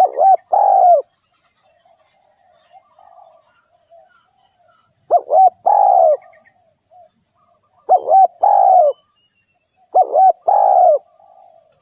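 Spotted dove cooing: four phrases a few seconds apart, each two short notes followed by a longer note that falls at the end. Faint chirps from other birds come between the phrases over a steady high hiss.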